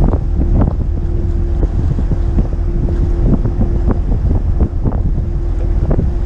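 Heavy wind buffeting the microphone aboard a McKinna 65 motor yacht under way, over a steady hum and irregular sharp slaps, likely of water on the hull.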